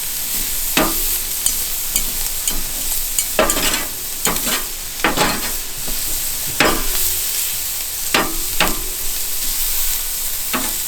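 Chicken and shrimp sizzling on a PK 360 charcoal grill: a steady frying hiss, with several sharp clicks spread through it as the pieces are turned on the grate.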